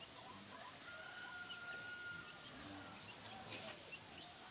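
Faint farmyard sounds: chickens clucking and small birds chirping, with one long, steady, whistle-like note held for about a second.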